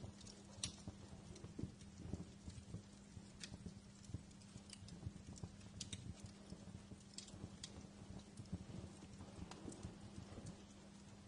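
Wood fire crackling: irregular sharp snaps and pops, a few louder than the rest, over a faint steady low hum.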